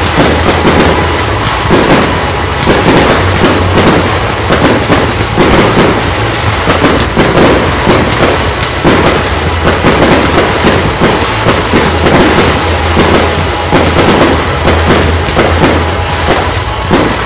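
Aerial fireworks in a continuous barrage: many bangs and crackling bursts each second, overlapping with no pause.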